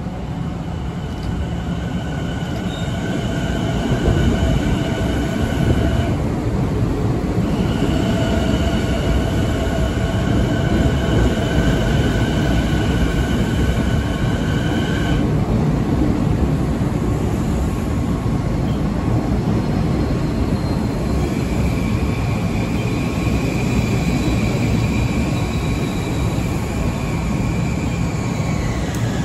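Long Island Rail Road electric multiple-unit train pulling into the station and slowing, its wheels rumbling steadily. Two long, steady high squeals sound over the rumble, and a single thinner squeal comes late as the train comes to a stop.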